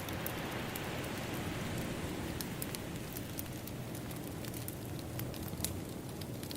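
A wave washing in, its hiss swelling at the start and ebbing away over a few seconds, under a crackling wood fire with scattered sharp pops.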